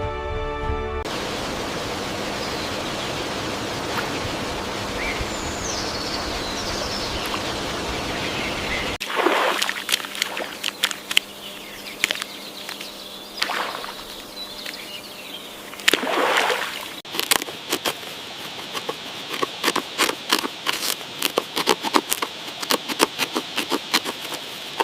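Water ambience: a steady rush of running water with a few short bird chirps. Later come two splashing surges, then a dense run of sharp, irregular water splashes and drips.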